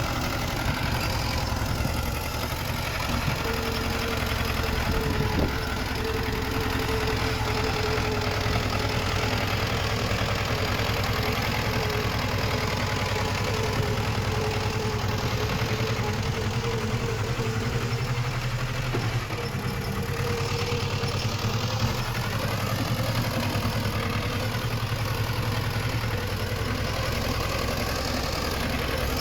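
Diesel engine of heavy earthmoving machinery running steadily, with a thin steady whine over it for much of the time that fades out past the middle.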